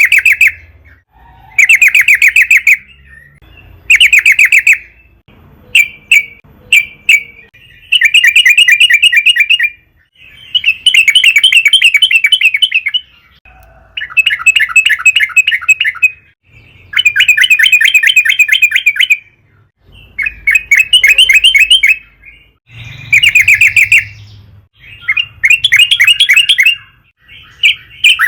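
Yellow-vented bulbul (trucukan) singing loudly: repeated phrases of quick, bubbling chattering notes, each a second or two long, with short pauses between.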